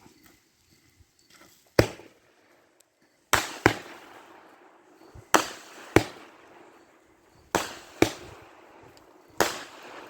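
Consumer fireworks going off: about eight sharp bangs, several coming in close pairs, each followed by a trailing hiss.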